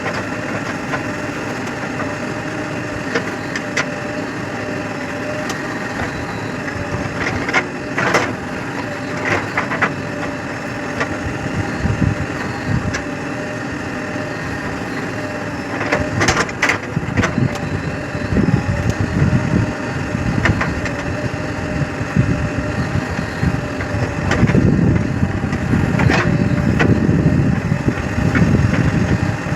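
Diesel engine of heavy machinery running steadily at earthmoving work, with scattered knocks and clatters, and a heavier, louder rumble near the end.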